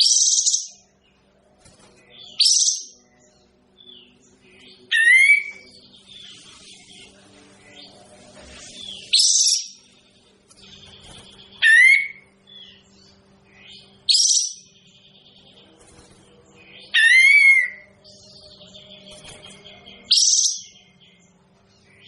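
A kapas tembak songbird giving short, sharp, loud calls every two to three seconds, eight in all, some sliding down and back up in pitch, with faint twittering between them. A steady low electrical hum runs underneath.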